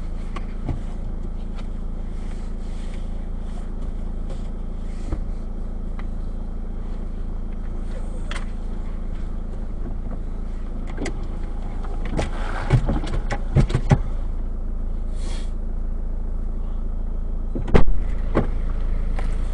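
Car running, a steady low drone heard from inside the cabin, with a cluster of knocks about two-thirds of the way through and one loud thump near the end.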